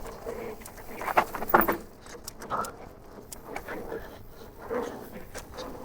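Mountain bike riding over a rough dirt trail: irregular clicks, rattles and crunches of tyres and frame, with a louder clatter about a second in.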